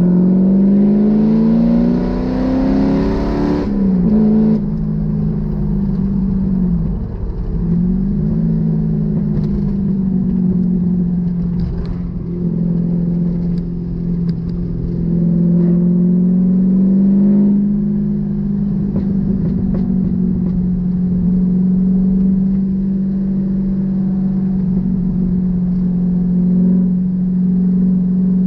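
Triumph TR7's Rover SD1 3.5-litre V8 engine revved up, its pitch rising for about three seconds and then dropping sharply. It is blipped again briefly, then runs steadily with small rises and falls in pitch.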